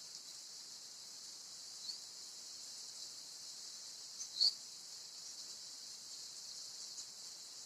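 Steady high-pitched hiss with two short canary chirps, one about two seconds in and a louder one with a slight click about four and a half seconds in; the bird is not singing in full.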